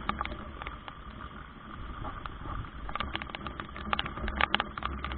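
Heavy rain: irregular drops tapping close to the microphone over a steady low rumble and hiss, the taps coming thicker from about three seconds in.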